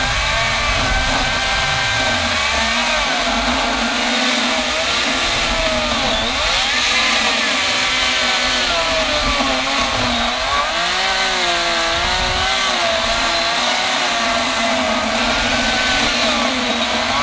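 Makita DUC254Z 18-volt brushless cordless chainsaw cutting into a thick block of very hard old timber, its motor pitch rising and falling as it labours under the load. The wood is at the limit of what the small saw can handle, and it is struggling to get through.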